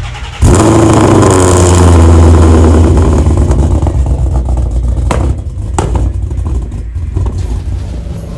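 A motor vehicle's engine running loud and accelerating, coming in suddenly about half a second in and easing slightly after its peak. Two sharp clicks sound near the middle.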